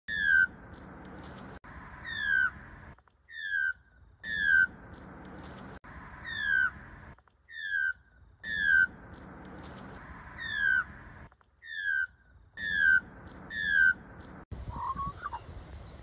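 A bird's short, falling whistled note, repeated about once a second in a regular series broken by abrupt cuts. Near the end a different, lower wavering call is heard.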